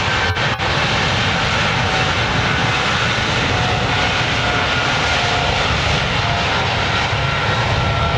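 Boeing 777-300 jet airliner's engines running loud and steady, a wide rush of noise with a faint whine that wavers slightly in pitch. Two brief clicks sound shortly after the start.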